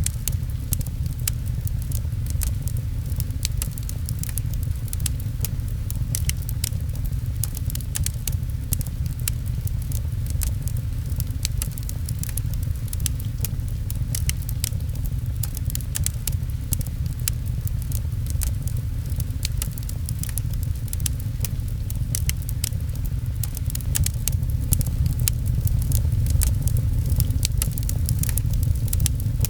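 Fireplace crackling, with frequent sharp pops and snaps, over a steady low rumble and rain patter.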